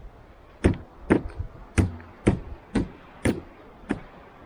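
Seven sharp knocks, about two a second: a wooden stick striking a Yamaha VK 540 snowmobile's track and running gear to break off the ice that is freezing it up.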